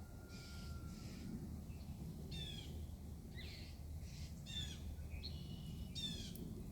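Small songbird calling repeatedly: short calls, each a quick run of notes falling in pitch, about once a second from about two seconds in, over a steady low background rumble.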